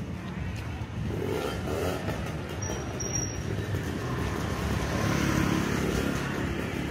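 Street traffic, with a vehicle passing close by and loudest about five seconds in.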